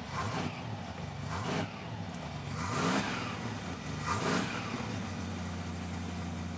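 Dodge pickup truck's engine blipped four times, each rev rising and falling, then settling to a steady idle near the end.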